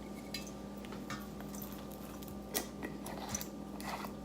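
Quiet kitchen handling sounds while raw chicken wings are seasoned: a few soft squishy rustles and light clicks over a steady low electrical hum.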